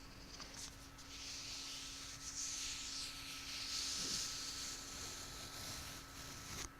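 Soft hissing rub of an object being handled close to the microphone, starting about a second in, swelling and easing, and cutting off abruptly near the end.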